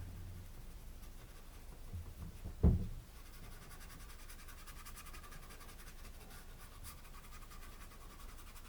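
A single dull thump a little under three seconds in, then faint, steady scratching of a paintbrush working paint onto canvas.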